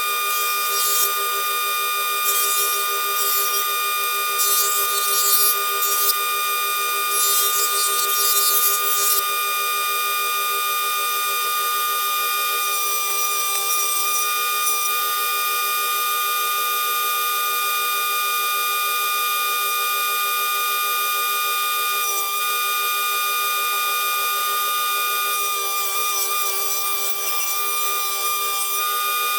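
Electric power tool motor running steadily with a high, constant whine, with several short bursts of harsher cutting noise in the first ten seconds.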